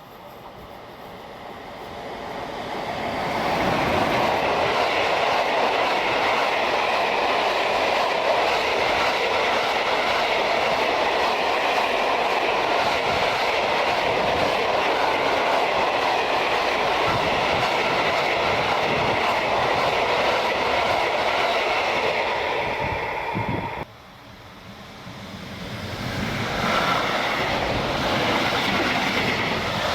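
A train passing close by on the rails: its rolling noise builds over the first few seconds and holds steady and loud. It cuts off abruptly about 24 seconds in, then builds again and holds.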